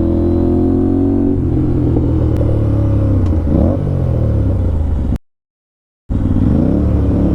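Aprilia RS 457's parallel-twin engine through an SC Project exhaust, under way: the engine note climbs slowly, drops about a second and a half in, and falls steadily as the bike slows. About five seconds in, the sound cuts out completely for about a second, then returns with the engine running again.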